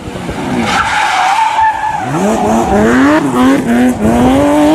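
A car engine revving hard through the gears, its pitch climbing and then dropping back at each shift, with a high squeal in the first two seconds.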